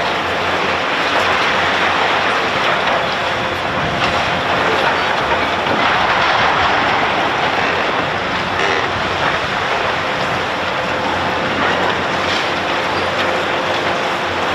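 Steady, loud mechanical noise from heavy machinery running, with a few faint knocks.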